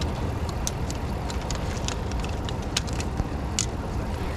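Steady low rumble with scattered light clicks and ticks: jumper cable clamps and hands working at a dead van battery's terminals.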